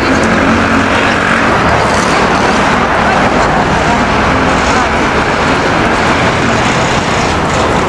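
Steady city street traffic: motor vehicles running past, with a continuous low engine hum under a broad road noise.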